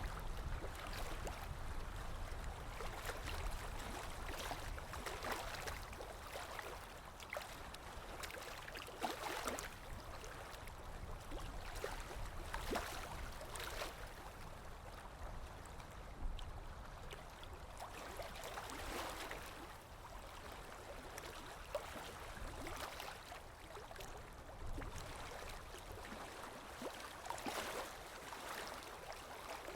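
Small waves lapping and washing in, the wash swelling and easing every few seconds.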